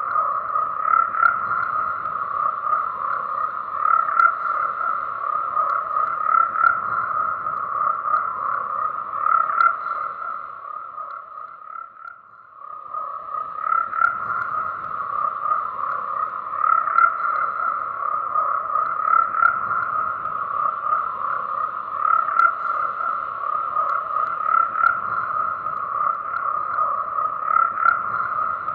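A dense chorus of frogs croaking, many rapid pulsing calls overlapping into a steady buzzing drone. About twelve seconds in it fades down briefly and swells back to full.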